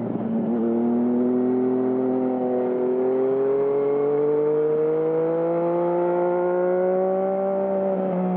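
2020 Yamaha MT-09's 847 cc inline-three engine running through a Termignoni aftermarket exhaust under way. The engine note dips briefly right at the start, then rises slowly as the bike gently accelerates, with a short break in the note near the end.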